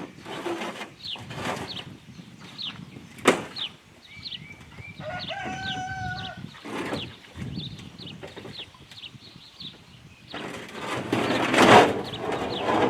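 Birds chirping in a quick run of short falling notes, with a longer call of several held notes about five seconds in. There is a sharp knock a little after three seconds, and a burst of rushing noise near the end.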